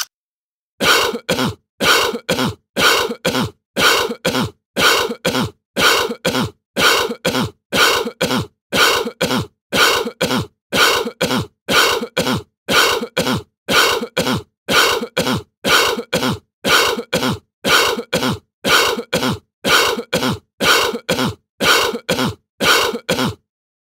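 A mouth-made noise, two short bursts in quick succession, repeated at a steady rate of about one pair a second, some two dozen times in a row with complete silence between.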